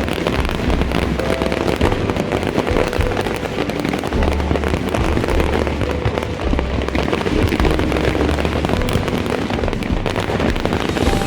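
A continuous fireworks barrage: dense crackling and popping throughout, with repeated deep booms underneath.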